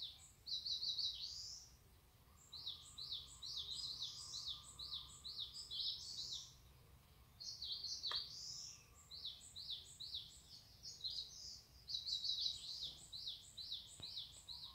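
Bird song: long runs of quick, high chirping notes, broken by short pauses between phrases.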